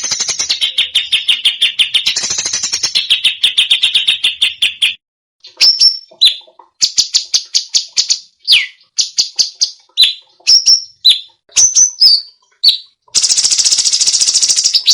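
Recorded songbird song: a fast, rattling trill of rapidly repeated high notes for about five seconds. After a short pause comes a string of short whistled notes and buzzy phrases, one of them a quick falling whistle. A dense, high buzzing trill follows near the end.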